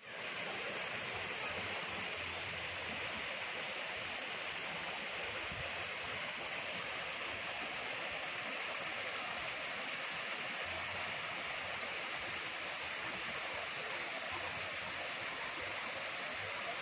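Waterfall: steady rushing of falling water, an even hiss with no breaks.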